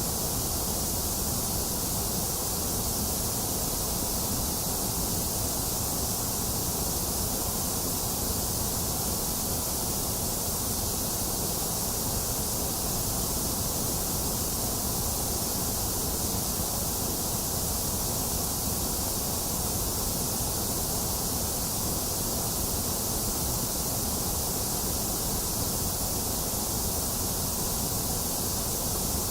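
Steady generated white noise: an even, unchanging hiss, brightest in the highest pitches, with a hollow in the upper middle.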